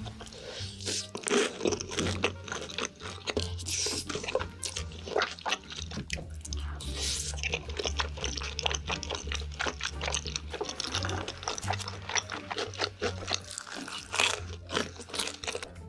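A person chewing food close to the microphone, ASMR mukbang style: many short crunching and clicking mouth noises follow one another without a break. Background music plays underneath.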